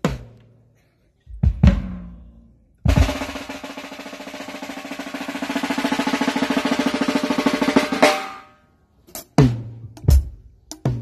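Drum kit sound check. A few single drum hits, then a fast drum roll lasting about five seconds that swells in loudness and ends on an accented hit, followed by a few scattered strokes.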